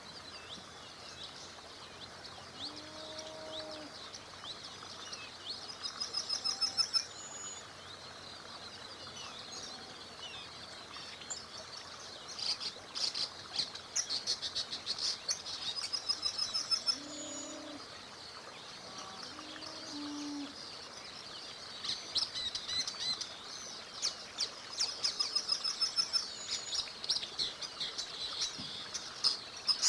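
Several wild songbirds singing and chirping in bursts of rapid high trills, the busiest stretches about six seconds in, around the middle and near the end, with a few short low calls in between. Underneath, a steady hiss of flowing river water.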